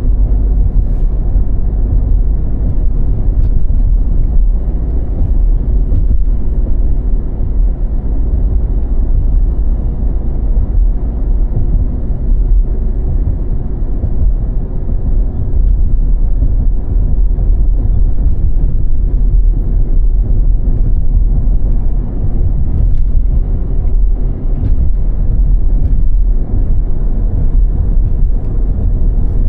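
Car driving on a snowy road: a steady low rumble of tyre and engine noise.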